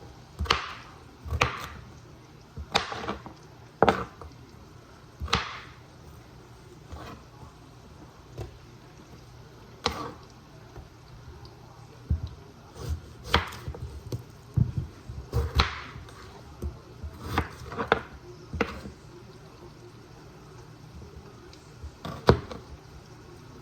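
Kitchen knife cutting raw potatoes on a cutting board: irregular sharp knocks of the blade hitting the board, with a couple of pauses of a few seconds.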